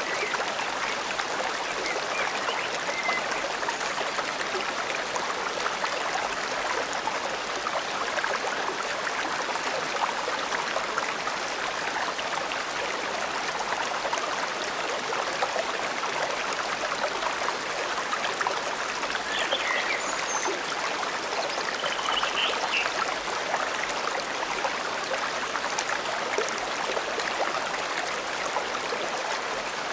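Forest stream babbling steadily, with a few faint bird chirps about two-thirds of the way through and again near the end.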